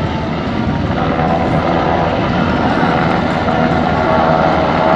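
Helicopter running with a steady, loud drone of rotor and engine.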